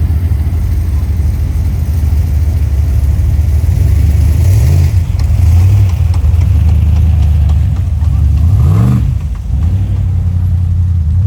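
A car engine idling loudly with a deep, steady note, its throttle blipped twice so the revs rise briefly and fall back.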